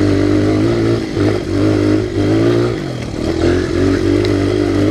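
Honda XR100R pit bike's small air-cooled single-cylinder four-stroke engine running as the bike is ridden. Its pitch rises and falls with the throttle, with brief dips about a second in and again around the three-second mark.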